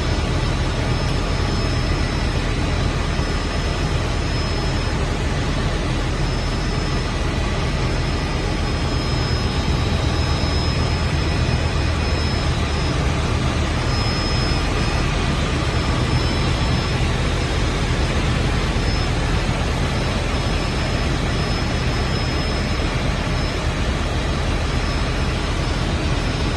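Helicopter turbine and rotor noise, steady and loud, with a thin high whine held throughout.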